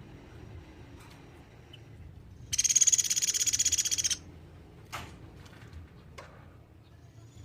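Platuk beras woodpecker giving one rapid, high-pitched trill of many quick notes, lasting about a second and a half, a couple of seconds in. A couple of short sharp clicks follow.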